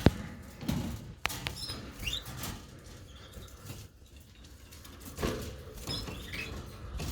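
Canaries giving short, rising chirps a few times, mixed with a few sharp clicks and knocks near the start.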